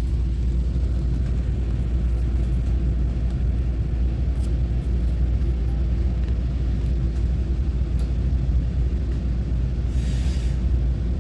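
Taiwan Railway EMU900-series electric multiple unit (set EMU923) running, heard from inside the passenger car: a steady low rumble of wheels on track, with faint clicks and a short hiss near the end.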